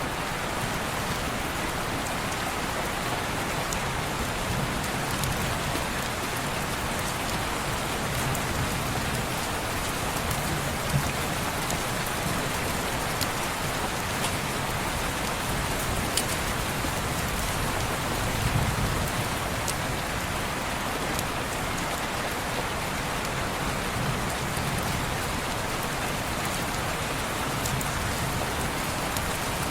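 Steady heavy rain falling on window glass, an even hiss with scattered small sharp ticks of drops.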